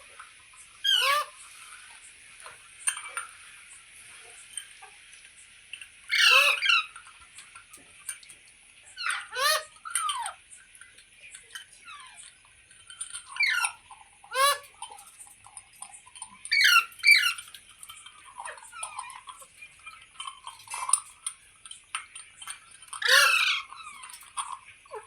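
Green ringneck parrot (rose-ringed parakeet) giving short, sharp squawks, about eight loud ones at uneven intervals with fainter calls between, over a steady high hiss.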